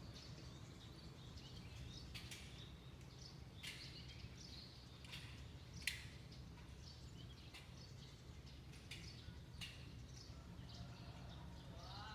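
Faint, scattered chirps of small birds over a steady low background hum, with one sharper chirp about halfway through. A pitched voice-like call begins right at the end.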